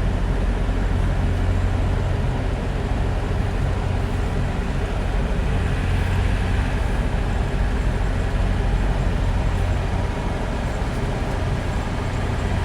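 Semi truck's diesel engine running steadily at low speed, a constant low hum.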